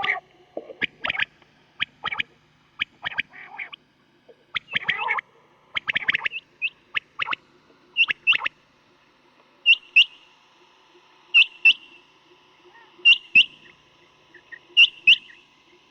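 Quail calling in short, sharp notes: at first in quick, overlapping bunches, then, from about ten seconds in, as paired double notes repeated every second and a half or so. It is a batair call recording of the kind played to lure quail when hunting.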